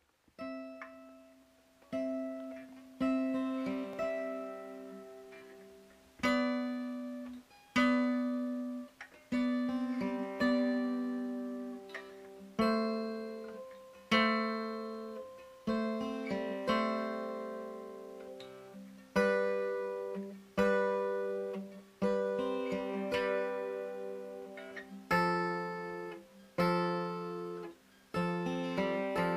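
Background music: an acoustic guitar picking slow chords, each one ringing out and fading before the next.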